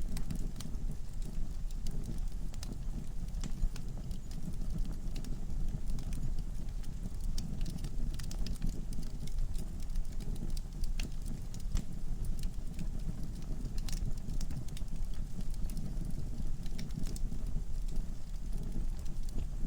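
Wood fire burning in a fireplace: a steady low rush of flames with irregular crackles and pops from the burning logs.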